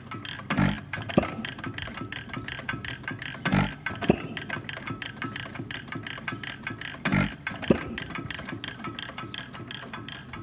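Root and Vandervoort Easy Cooler 2 1/2 HP stationary gas engine running as a hit-and-miss engine: it fires three times, about every three and a half seconds, each power stroke a heavy thump followed half a second later by a sharp click. Between the firings it coasts with a steady, fast clatter of its valve gear and mechanism.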